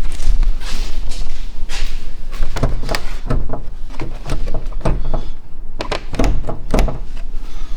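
A run of irregular knocks and thuds, several close together in places, over a steady low rumble.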